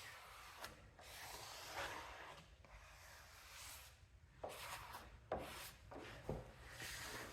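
Faint, irregular rubbing strokes as a wet vinyl decal is pressed and smoothed down onto a mower panel to work out a crease.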